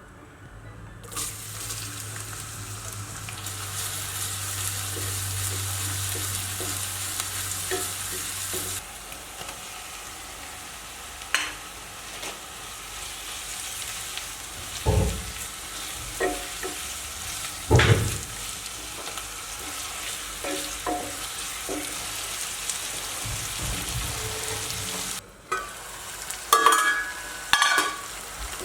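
Food sizzling in a frying pan while being stirred, with a few sharp knocks of a utensil against the pan and a burst of clattering near the end. The sizzle starts about a second in.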